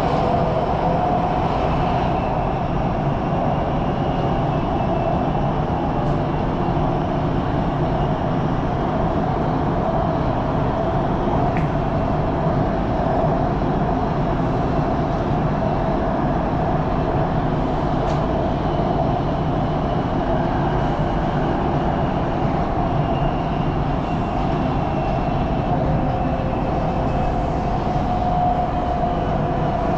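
Elevated electric train running at speed, heard from inside the car: a steady rumble of wheels on rail with a constant mid-pitched hum over it.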